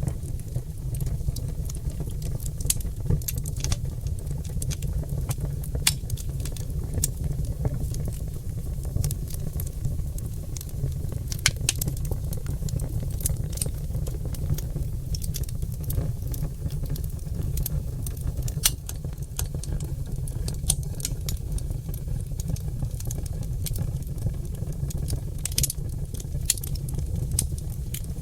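Wood fire of oak logs burning in a fireplace, crackling with frequent irregular sharp snaps and pops over a steady low rumble.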